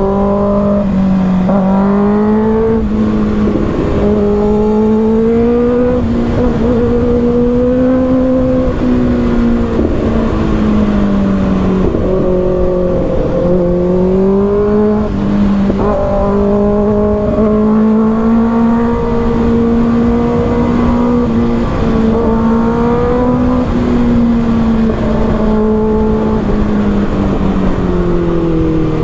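Motorcycle engine running at speed, its pitch holding steady and drifting gently up and down with the throttle, over rushing low wind and road noise.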